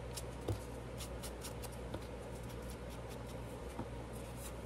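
Sheets of scrap paper being handled and shifted about: faint rustles and light taps, with a soft knock about half a second in, over a steady low hum.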